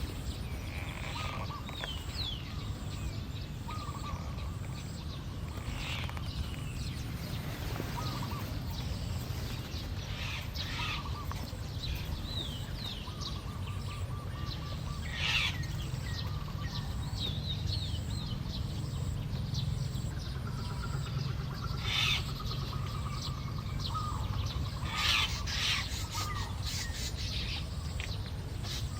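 Weaver birds chirping and chattering, with many short calls and quick rising or falling notes, a few louder sharp calls in the second half, over a steady low rumble.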